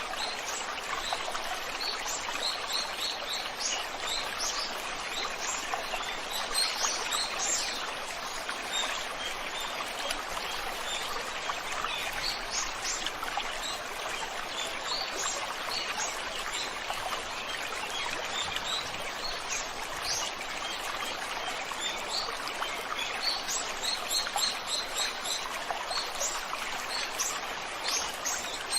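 Stream water flowing with a steady rush, and small birds chirping over it in many short, high calls.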